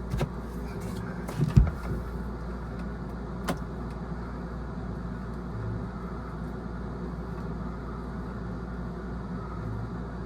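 Steady low machine hum, with a loud knock about a second and a half in and a sharp click a couple of seconds later, from hands-on work.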